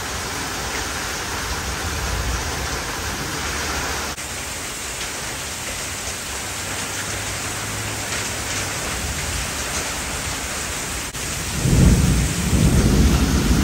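Heavy tropical-storm rain pouring down, a steady hiss. Near the end a deep rumble swells up and becomes the loudest sound.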